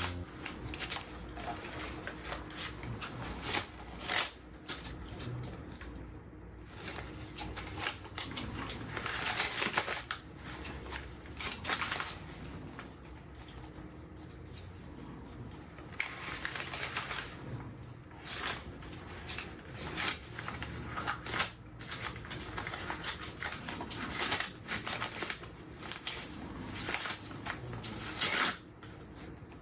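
Dog tearing up a roll of toilet paper with its teeth: irregular bursts of ripping and rustling paper, some sharp, scattered unevenly throughout.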